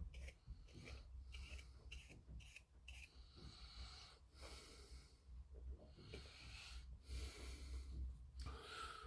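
Near silence: a faint low hum with soft hissing rustles and a few light clicks.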